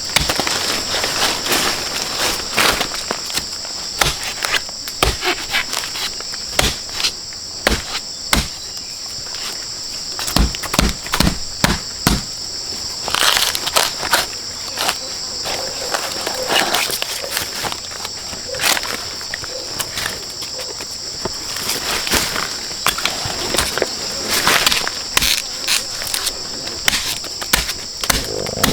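A steady high-pitched insect chorus drones throughout, overlaid by irregular knocks, clicks and rustling from someone working by hand.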